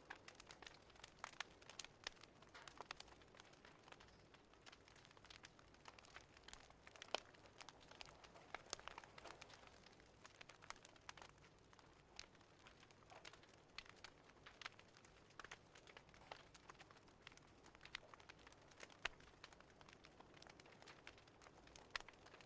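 Faint crackling of a wood fire, with irregular sharp pops and snaps over a low steady hiss.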